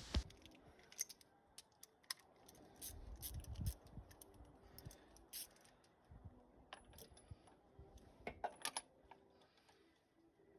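Faint, scattered metallic clicks and clinks of a ratchet and spark plug socket being handled and fitted together.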